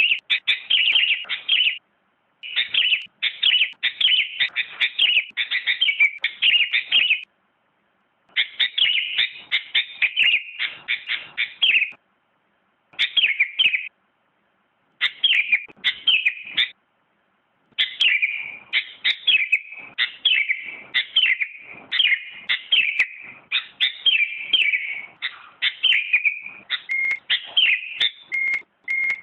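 Sooty-headed bulbul (kutilang) singing: bouts of quick, repeated chirping phrases broken by short pauses, with a few short steady whistled notes near the end.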